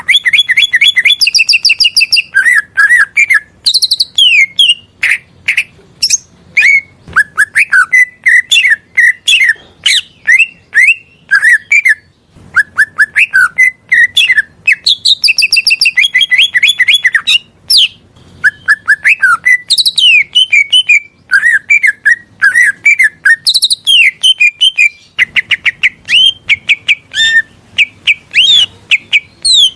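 Green leafbird (cucak ijo) song: loud, almost continuous, varied phrases made of fast runs of repeated chirps and short whistled notes that sweep quickly up and down, with brief pauses between phrases.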